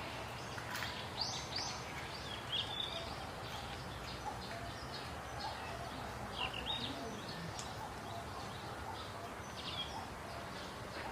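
Birds chirping outdoors: many short high calls, some in quick pairs, scattered over a steady low background hiss.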